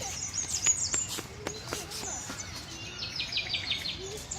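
Many small aviary birds chirping and twittering together, with a quick run of repeated high chirps about three seconds in and a few sharp ticks earlier on.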